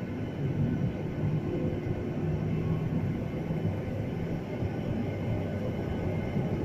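Airliner cabin noise heard from inside the cabin: a steady low rumble from the engines and airflow, with a faint steady hum.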